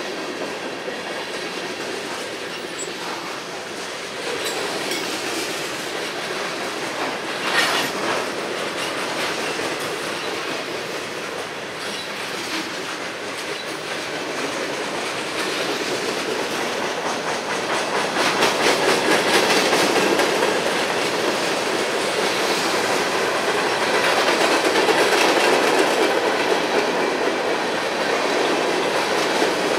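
Freight cars of a long CSX mixed freight train rolling past: a steady rumble of steel wheels on rail with the clickety-clack of wheels over rail joints, louder in the second half. A short, sharp louder noise stands out about eight seconds in.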